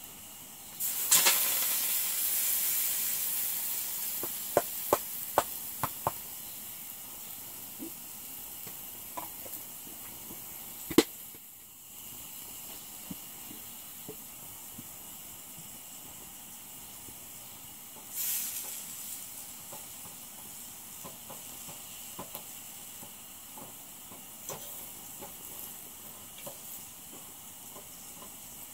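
Mushrooms tipped into a hot frying pan of onions on a propane camp stove: a loud sizzle breaks out about a second in and fades over several seconds, with a few sharp taps on the pan. A second, shorter burst of sizzling comes about two-thirds of the way through, over a steady background hiss.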